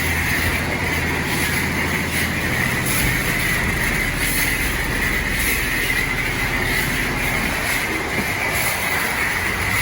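Self-service car wash spray wand applying foam to a car: a steady hissing rush of spray with a low pump hum underneath.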